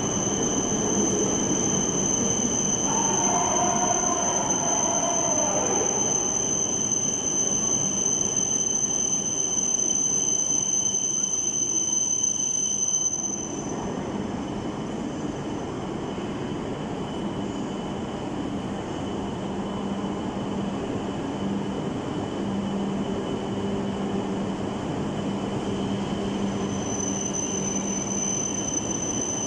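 A train running: a steady rail rumble with a high, steady whine, and a squeal that glides down in pitch about three to six seconds in. About thirteen seconds in, the sound drops a little and the whine stops.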